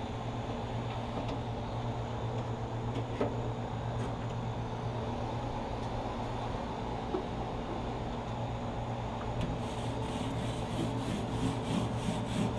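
Grill grates being scraped clean, metal rasping in quick back-and-forth strokes of about four a second that start about three-quarters of the way in, over a steady low hum.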